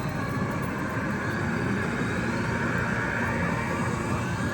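Steady, dense din of a busy pachislot hall: many slot machines sounding at once, with no clear single sound standing out.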